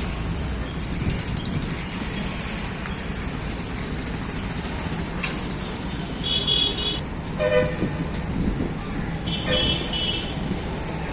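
Steady road-traffic noise with vehicle horns honking: three short, high-pitched toots in the second half.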